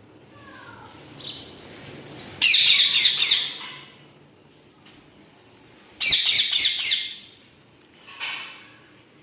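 Pet parrots squawking: two loud, harsh squawks of about a second each, and a shorter one near the end, with a faint gliding chirp before them.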